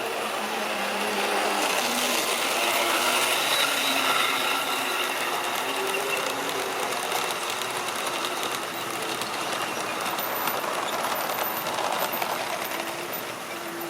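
Model railway train running on the track: the locomotive's small electric motor whirring and the wheels clicking and rattling over the rails. It gets louder about two seconds in.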